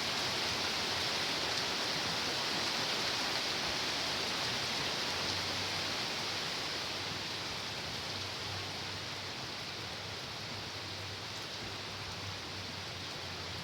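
Steady heavy rain falling, a dense even hiss that eases slightly about halfway through.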